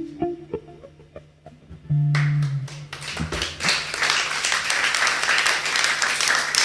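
Guitar playing the last sparse, ringing notes of a song, ending on a low note about two seconds in; about a second later audience applause breaks out and continues.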